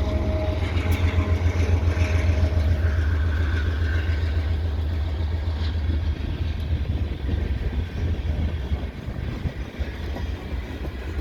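Diesel-hauled freight train passing: a deep locomotive engine rumble that fades after about eight seconds, while the freight cars roll by on the rails.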